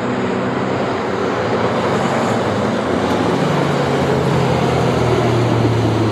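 Engines of Mighty Trucks race trucks running at caution pace as the field circulates under yellow. One engine's low hum grows louder about halfway through and holds.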